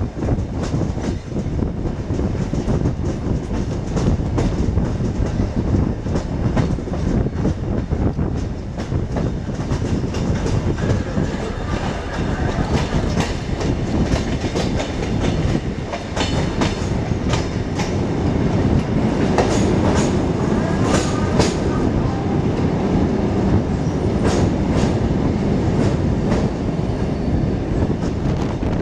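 Passenger train running on the rails, heard from aboard: a steady low rumble with the clickety-clack of wheels passing over rail joints.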